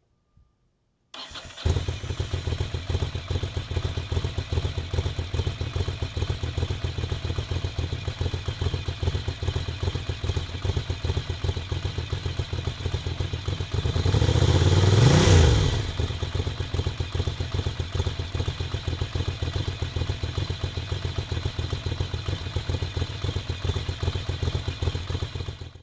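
2005 Ducati V-twin engine cold-started: a short crank about a second in, then it catches and idles with a steady pulsing beat. About fourteen seconds in it is revved once, rising and falling, and then settles back to idle.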